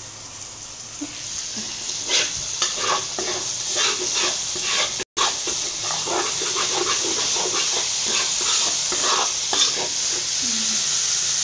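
Curry paste sizzling as it fries in oil in a pot, with a metal spoon repeatedly scraping and knocking against the pot as it is stirred. The paste is being fried until the oil separates out.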